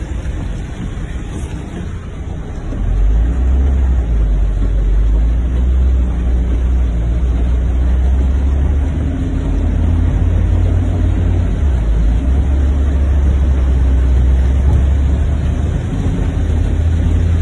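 Heavy rain with vehicle engines running on a flooded street: a steady wash of rain noise under a low engine rumble that grows louder about three seconds in and holds.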